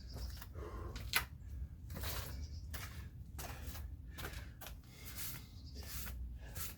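A man breathing hard in quick, noisy breaths, recovering from burpees and kettlebell jump squats, with a sharp click about a second in.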